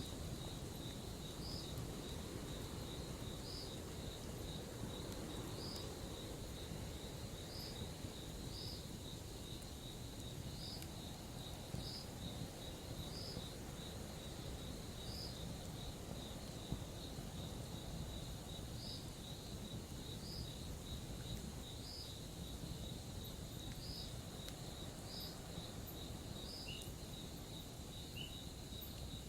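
Crickets trilling steadily in a high, pulsing chirp, over the low, even hiss and crackle of a campfire with a couple of small pops.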